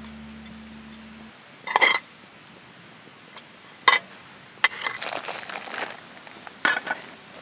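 Metal cookware and utensils clinking and clattering: a few separate sharp clinks, with a longer run of clatter about halfway through.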